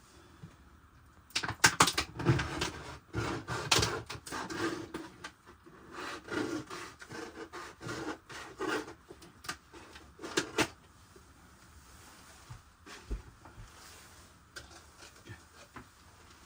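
A busy run of knocks, clicks and rubbing, as of objects being handled and set down, lasting from about a second in to about ten seconds in, then only a few faint ticks.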